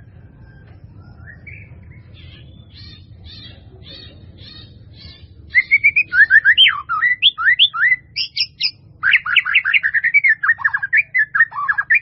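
White-rumped shama singing: a run of faint, rapid, evenly repeated notes, then, from about halfway, loud, fast whistled phrases sweeping up and down in pitch, with a short break before a final run. A steady low hum sits underneath.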